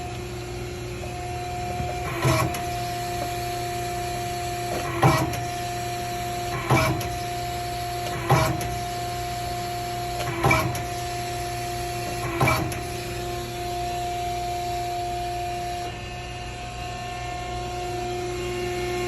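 1998 Euromac CX1000/30 CNC punching machine running with a steady hum. It punches six hits, each a short bang, spaced about two seconds apart over the first two-thirds, and the hum's tone dips briefly with each stroke.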